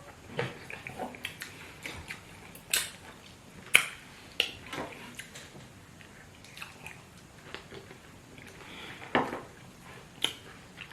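Eating sounds: fufu and soup being chewed and swallowed, with scattered sharp clicks and smacks now and then.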